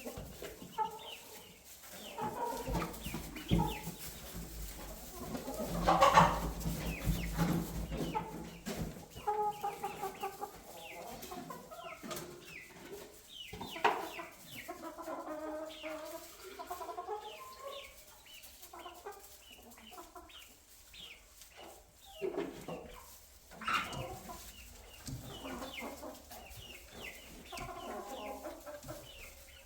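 A flock of chickens clucking and calling, many short irregular calls with a few louder, sharper ones, and a low rumble under them for several seconds near the start.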